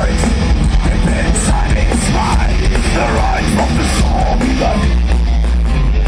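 Loud heavy metal music: dense distorted electric guitars over heavy bass and drums, with a singing voice running through it.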